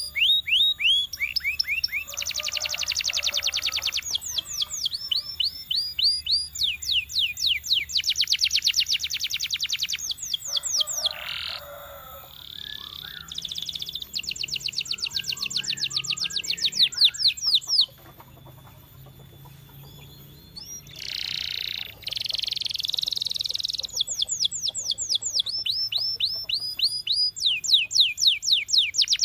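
Domestic canary singing: fast trills of rapidly repeated, down-sweeping high notes, phrase after phrase, with short pauses between and a quieter stretch about two thirds of the way through.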